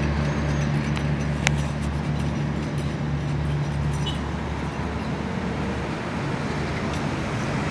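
Diesel train running: a steady low engine drone under a rushing rail noise, with a sharp click about a second and a half in. The drone weakens over the last couple of seconds.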